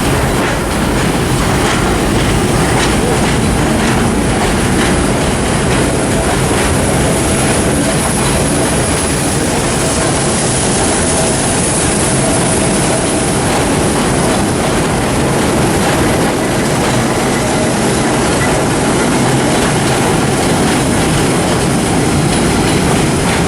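Vintage subway train running along the track: a steady, loud rumble of steel wheels on rail.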